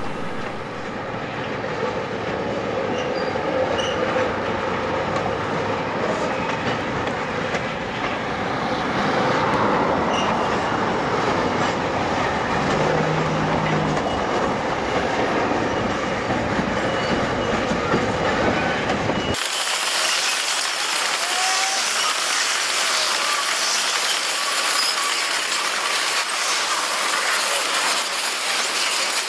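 Freight train rolling slowly, its steel wheels clacking over rail joints and squealing on the track. About two-thirds through, the sound changes abruptly to a thinner, hissier rolling noise with no low rumble.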